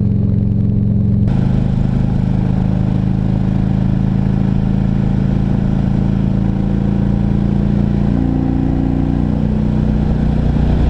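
Harley-Davidson Ultra Classic Electric Glide's V-twin engine running steadily at cruising speed, around 3,500 RPM, the rider's favoured sweet spot. Over it is a rushing noise that jumps up suddenly about a second in.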